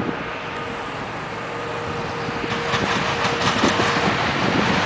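GE ES44AC diesel locomotive with its V12 engine, approaching at the head of a coal train; the engine and rail noise grow steadily louder. A faint steady tone runs through the first few seconds, and rough gusty noise comes in from about halfway.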